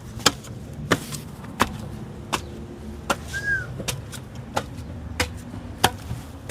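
Footsteps walking at an even pace, about three sharp steps every two seconds. A brief high chirp sounds about three and a half seconds in.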